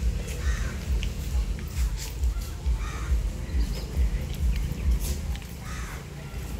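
A few short bird calls, spaced a second or more apart, over a steady low rumble on the microphone.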